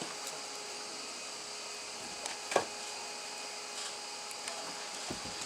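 Wooden hive parts being handled: a small knock, then a sharper, louder wooden knock a little past halfway, over steady background noise.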